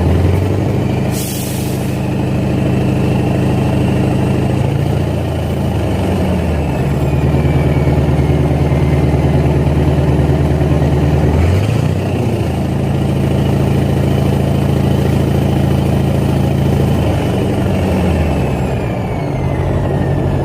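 International 4070 truck's V800 V8 diesel engine running, its pitch climbing and then falling back three or four times as the revs rise and drop. A short burst of air hiss about a second in, and a fainter one about halfway through.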